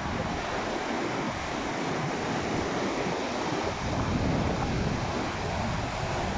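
Baltic Sea waves surging and breaking, with strong wind gusting across the microphone; a dense, unbroken wash of noise that swells a little midway.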